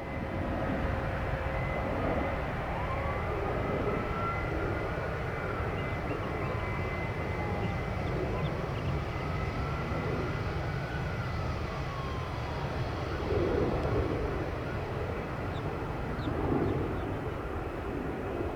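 Jet airliner engines running nearby: a steady, heavy rumble with an engine whine that rises and falls in pitch twice, and a couple of brief swells near the end.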